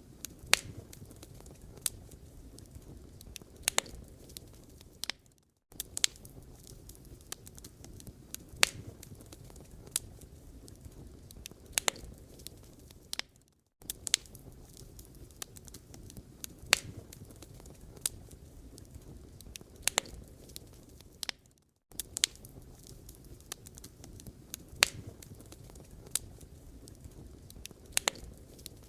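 Wood fire burning in a fireplace, crackling with irregular sharp pops over a low steady hiss. The sound drops out briefly about every eight seconds.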